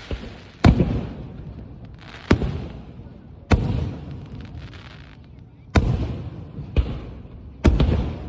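Firework shells bursting in a show: about six loud booms at uneven intervals of one to two seconds, each trailing off in a rumbling echo.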